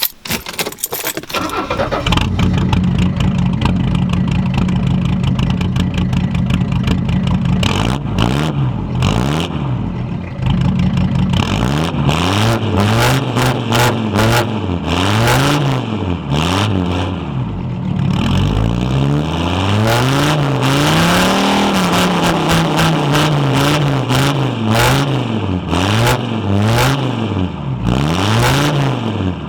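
1980 Mercedes-Benz W123 300D's five-cylinder diesel through a straight-pipe exhaust: it starts up in the first couple of seconds and idles. From about eight seconds in it is revved again and again, rising and falling, with one longer held rev around twenty seconds in.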